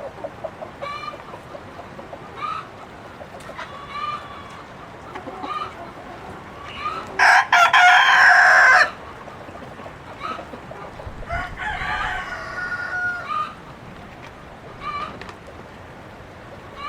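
Chickens clucking in short calls every second or two, with a rooster crowing loudly once about seven seconds in and a second, quieter crow a few seconds later.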